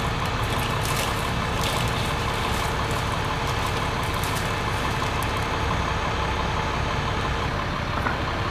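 Bucket truck's engine idling steadily, a low even rumble with a few faint clicks, cutting off suddenly at the end.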